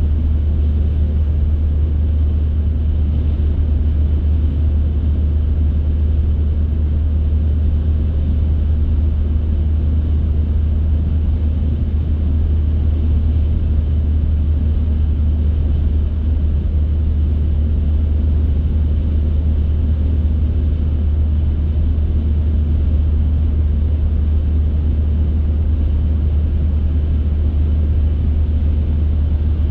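A car driving along at a steady pace: a constant low rumble of road and engine noise that does not change.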